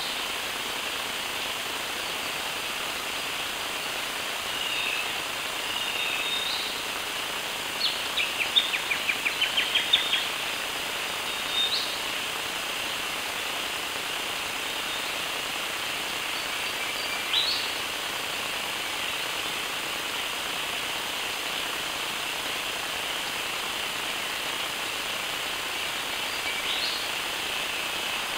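Birds calling in bushland over a steady hiss. A few short calls are scattered through, and about a third of the way in comes a quick run of about ten sharp notes over two seconds, growing louder.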